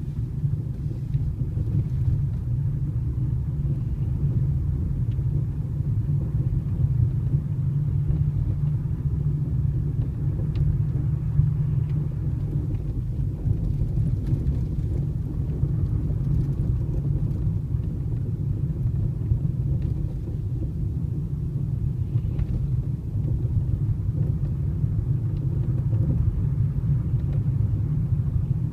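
Hyundai Solaris driving over uneven road: a steady low rumble with a few faint knocks mixed in. The knocks are the steering rack knocking on the right side over bumps, a sign of wear in the rack.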